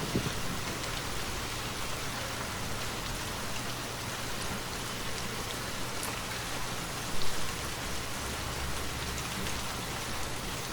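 Steady rainfall, an even hiss of many drops, with the tail of a low thunder rumble dying away in the first moment.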